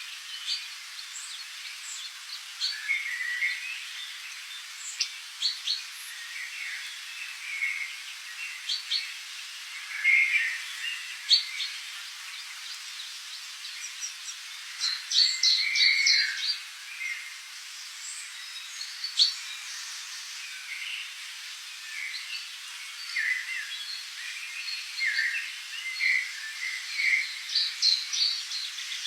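Tropical forest birds calling: many short chirps and calls from several birds, scattered irregularly, over a steady high background hiss.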